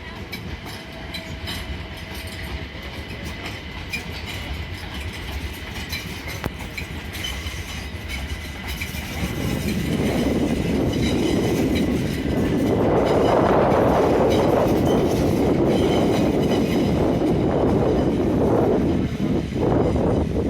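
A train moving along the tracks at a station, its noise building from about halfway through and staying loud to the end.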